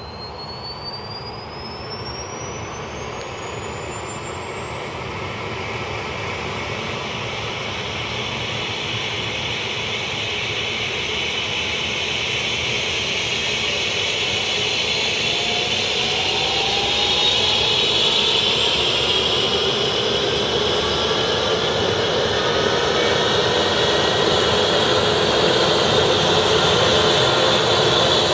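Eurocopter EC135 helicopter's turbine engine starting up: a thin high whine rising in pitch over the first few seconds, under a running noise that builds steadily louder.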